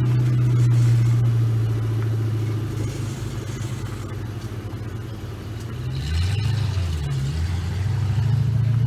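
1999 Ford Mustang Cobra's V8 engine heard while driving, with a steady drone that eases off and quietens in the middle. About six seconds in it pulls again, its pitch stepping up and down, and it rises toward the end.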